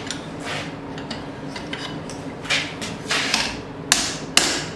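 Hammer blows on hot steel as the tomahawk's wrapped eye is worked around a drift: a few scattered strikes, the two loudest near the end, over a steady hum.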